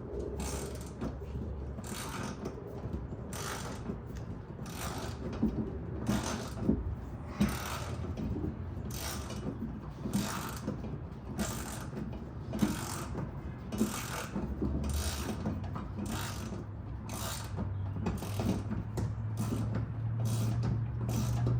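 Hand ratchet wrench being worked in steady back-and-forth strokes, a burst of clicking about three times every two seconds.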